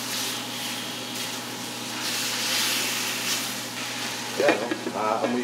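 Chicken pieces frying in a hot steel wok, a steady sizzle as they are stirred with a spatula. A man's voice comes in near the end.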